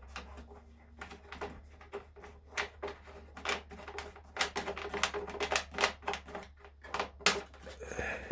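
Rapid, irregular clicking and ticking as the nuts holding down the air filter cover on a Briggs & Stratton twin-cylinder engine are turned off, several clicks a second.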